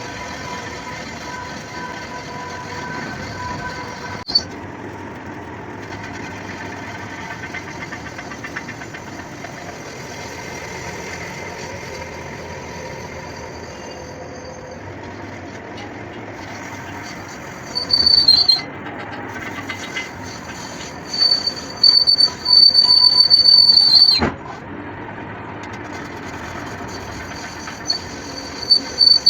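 Metalworking machinery running on steel, with a steady mechanical noise and repeated loud, high-pitched metal-on-metal squeals in the second half, the longest lasting about three seconds before it cuts off sharply.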